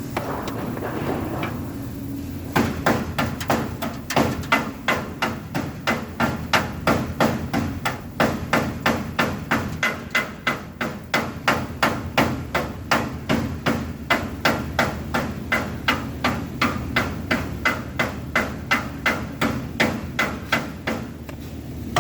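Steady hammering on metal, a little over two blows a second, with a ringing note to each strike; it starts about two and a half seconds in and stops near the end.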